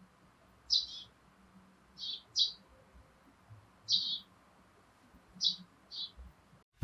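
A small bird chirping: six short, high chirps spaced about a second or more apart, some in quick pairs.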